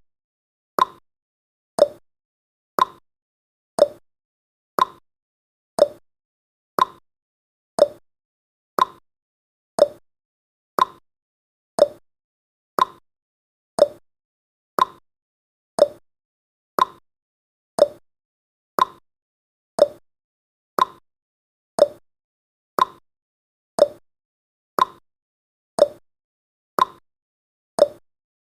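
Countdown timer's tick sound effect: one short, sharp click each second, evenly spaced, with silence between the clicks.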